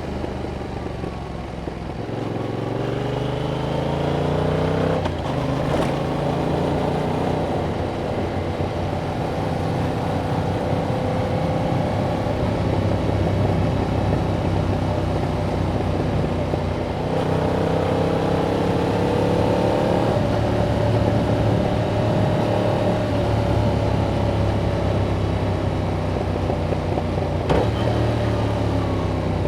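Stock exhaust of a 2021 Yamaha MT-07's 689 cc parallel-twin engine under way. It pulls up in revs twice, about two seconds in and again past halfway, with a drop in pitch at each upshift, and runs steadily between; another shift comes near the end.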